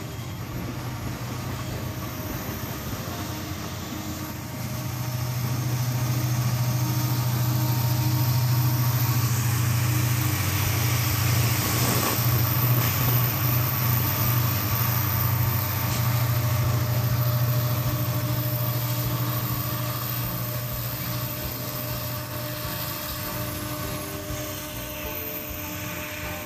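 Diesel-electric CC205 locomotives hauling a long coal train pass close by: a deep, steady engine drone builds about five seconds in, is loudest mid-way as the locomotives go past, then eases as the coal wagons roll by.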